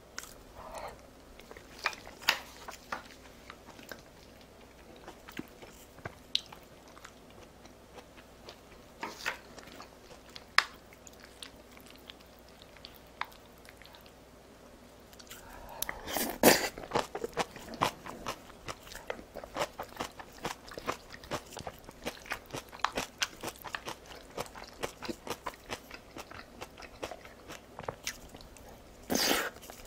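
Close-miked eating: a few soft mouth and spoon clicks at first, then, from about halfway through, fast, dense chewing and crunching with one loud bite near its start.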